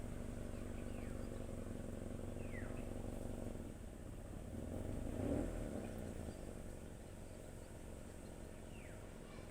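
A car engine running steadily, dropping a little about four seconds in, with a brief rise about five seconds in. Two short falling chirps sound over it.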